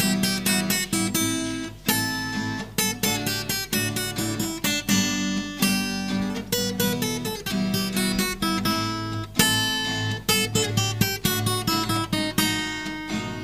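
Instrumental break of a song: acoustic guitar strumming chords in a steady rhythm, with no singing.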